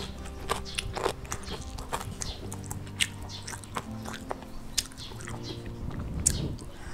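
A person chewing and eating grilled cutlassfish close to a clip-on microphone, with many small sharp mouth clicks throughout.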